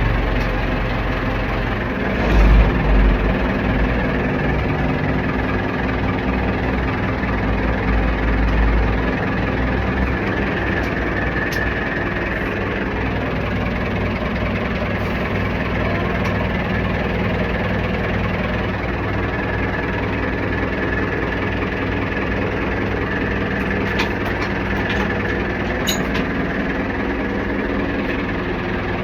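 Ford backhoe's diesel engine running steadily at idle, with louder low rumbles about two seconds in and again around eight seconds in.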